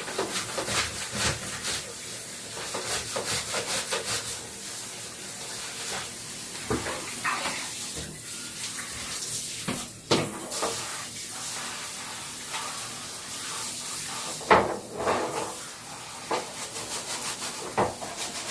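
Hissing spray and rubbing while parts of a top-loading washing machine are cleaned, broken by frequent knocks and clatter of parts, the loudest knocks about ten seconds in and about fourteen seconds in.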